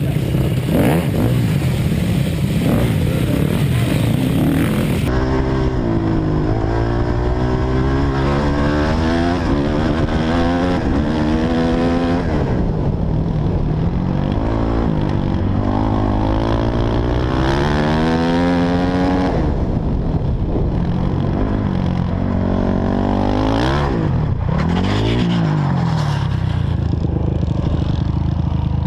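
Dirt bike engine accelerating hard, its pitch climbing and dropping again and again as the throttle and gears change, with an abrupt change in the sound about five seconds in. A few sharp knocks and clatter are heard about three-quarters of the way through.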